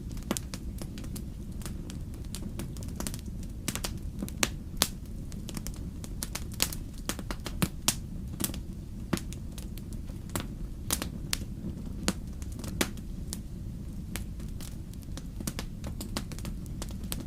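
Wood fire burning in a fireplace: irregular sharp crackles and pops, several a second at times, over a steady low rumble.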